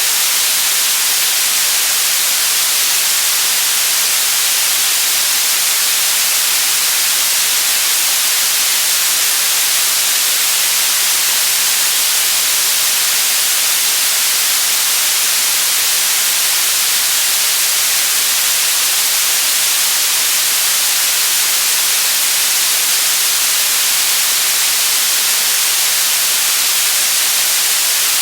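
Steady, unbroken white-noise hiss, even and unchanging, with most of its energy in the high frequencies.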